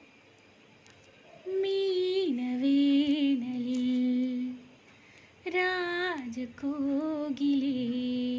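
A woman humming a slow melody without words, in two long phrases of held notes.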